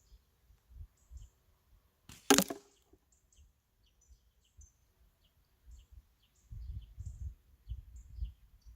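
One slingshot shot: a single sharp crack with a short ringing tail about two seconds in. Small birds chirp throughout, and a low rumbling noise comes in near the end.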